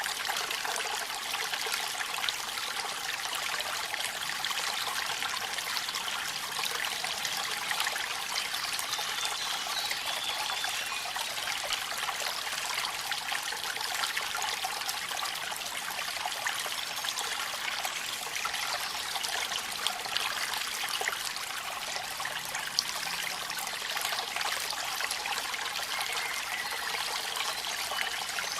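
Waterfall in the rain: a steady, bright splashing and trickling of water, with many fine drop ticks throughout.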